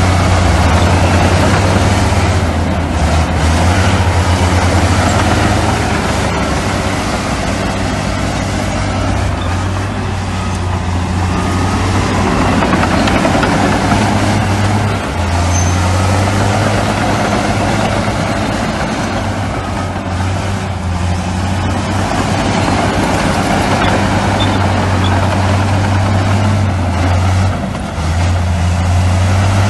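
Heavy diesel earthmoving machinery running steadily with a low engine drone and broad mechanical noise, dipping briefly about halfway through and again near the end.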